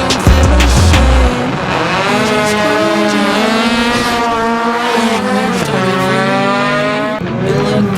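A heavy bass beat in the first second or so, then a racing engine accelerating hard: its pitch climbs steadily, drops at a gear shift about six seconds in, and climbs again.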